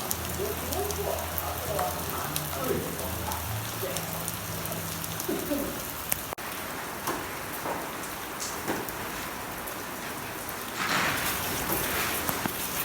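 Steady rain falling on surfaces, with individual drops ticking. A low hum fades out after about three and a half seconds, and the splashing grows louder for a second or two near the end.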